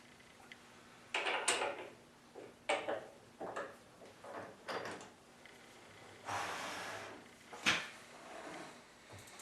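Irregular knocks, clicks and scraping of metal tools and parts being handled at a lathe, with a longer scraping rush about six seconds in and a sharp knock just after it.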